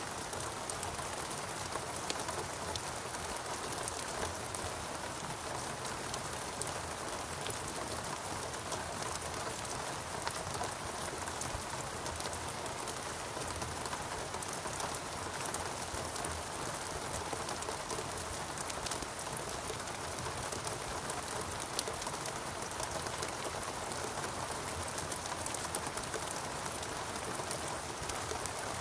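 Steady rainfall with many individual drops pattering on surfaces, an even wash of noise with scattered small drop ticks.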